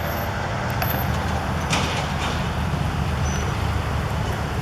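Freight train rolling past: a steady low rumble of wheels on rail, with a few sharp clicks.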